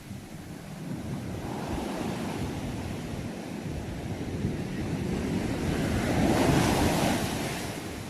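Sea waves surging: a first swell early on, then a larger wave building to its loudest about six to seven seconds in and washing back down.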